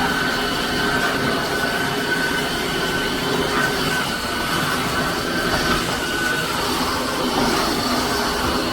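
Tineco iFLOOR 5 Breeze cordless wet-dry floor washer running steadily, a motor whine over a constant rushing hiss.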